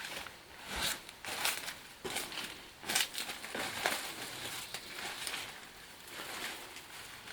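Irregular crunching and rustling of dry plant material, with several sharp crackles in the first four seconds that then settle into softer rustling.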